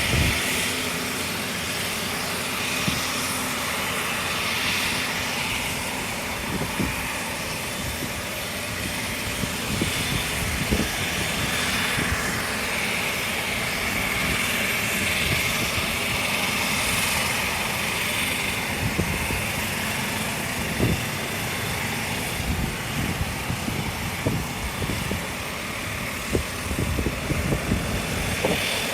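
Bombardier DHC-8 Q400's Pratt & Whitney PW150A turboprop engines running after start, heard from inside the cabin: a steady engine and propeller drone with a high whine, broken by irregular low thumps.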